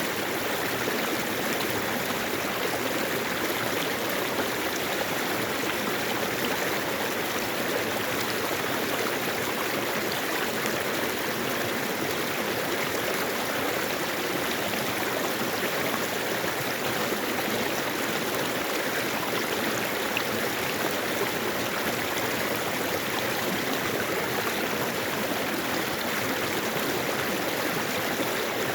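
Mountain valley stream flowing over rocks, a steady rush of running water with no change.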